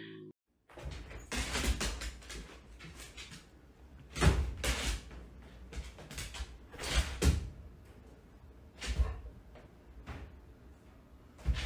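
Several irregular knocks and thuds, the strongest about four and seven seconds in.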